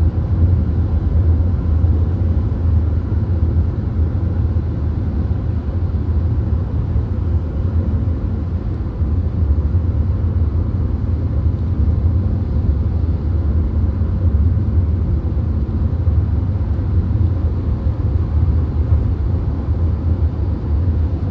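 VW Golf driving at highway speed, heard from inside the car: a steady low rumble of road and engine noise that stays even throughout.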